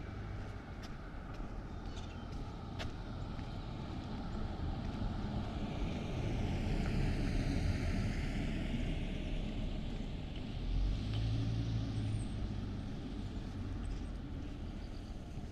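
A car driving past on the street, its tyre and engine noise swelling to a peak about halfway through and then fading, with a short low engine hum a little later.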